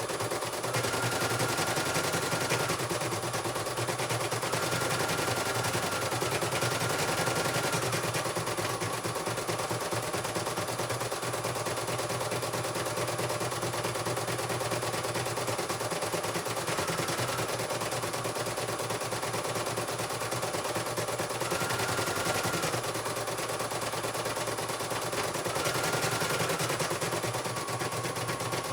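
CNY computerized embroidery machine stitching a test run: a fast, steady chatter of needle strokes, with a short high whine coming in every few seconds.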